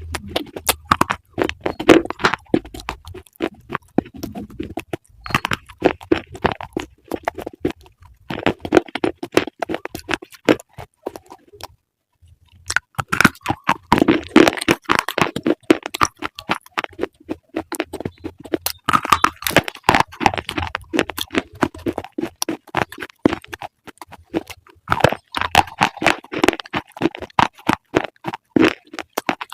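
Close-miked crunching and chewing of crisp food: rapid crackly bites in clusters a few seconds long, with short pauses between them and a brief silent gap about twelve seconds in.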